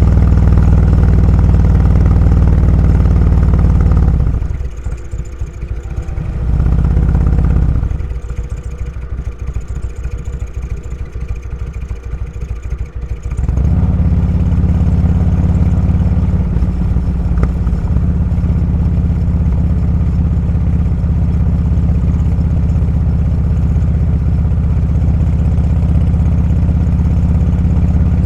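Motorcycle engine running at a steady cruising note. About four seconds in, the throttle closes and the note drops to a quieter low pulsing beat. It rises briefly, drops again for about five seconds, then picks back up to a steady note for the rest.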